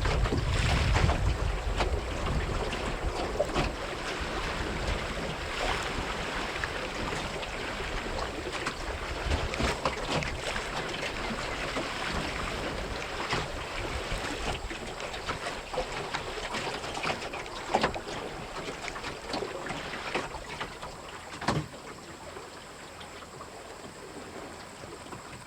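Water rushing and splashing along the hull of a small wooden Melonseed sailing skiff under way in gusty wind. Wind buffets the microphone for the first second or two, and there are a few sharp knocks later on.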